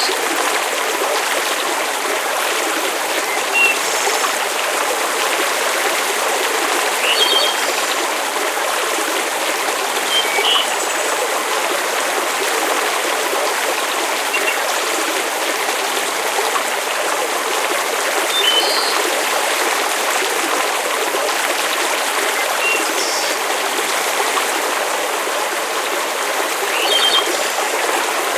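Steady rushing water noise, like a flowing stream or steady rain, with short high chirps every few seconds.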